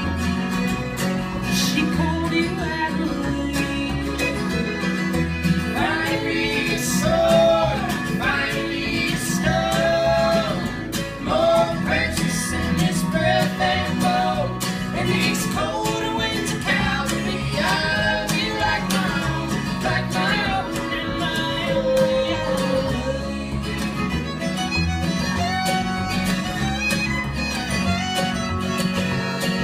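Acoustic string band playing an instrumental passage: a fiddle carries the melody with sliding notes over strummed acoustic guitar and a low bass line.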